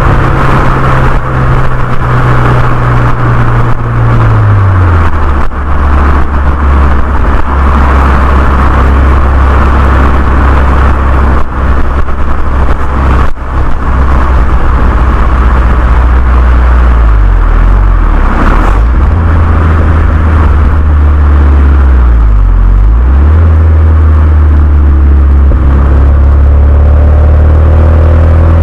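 Renault Mégane 2 RS's 2.0-litre turbocharged four-cylinder engine running through a Milltek cat-back exhaust, with a deep steady drone. Its pitch drops about four seconds in, then dips briefly and comes back up twice in the second half.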